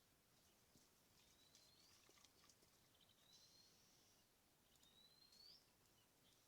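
Faint bird call: a thin whistle sliding upward in pitch, given three times at even spacing, over a faint steady hiss.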